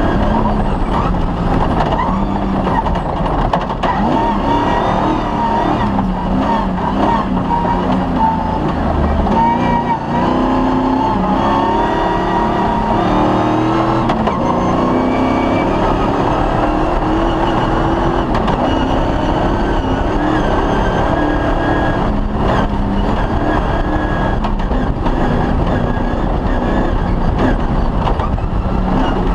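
Off-road rally car engine running hard on a special stage, its pitch stepping and gliding up and down as it accelerates and changes gear, under a constant rumble of the drive over rough ground.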